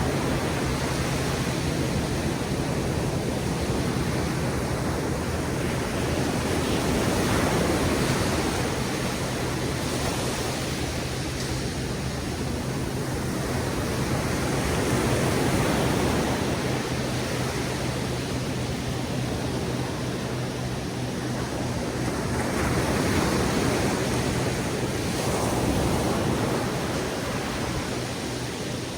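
Ocean surf breaking on a beach: a steady wash of noise that swells about every eight seconds as each wave comes in.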